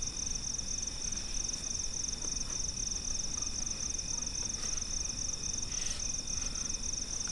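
Crickets chirping in a steady, high-pitched, evenly pulsing trill.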